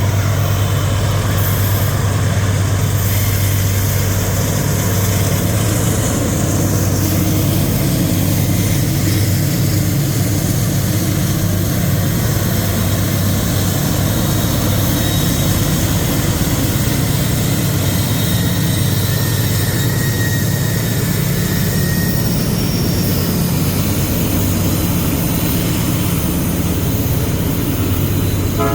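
Diesel freight locomotive engine running with a steady, loud low drone.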